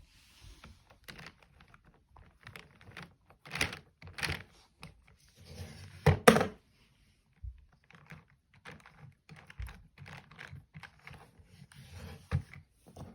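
Lego plastic parts of a vacuum-driven V6 engine clicking and knocking irregularly, with a few short spells of air hiss; the loudest clatter comes about six seconds in.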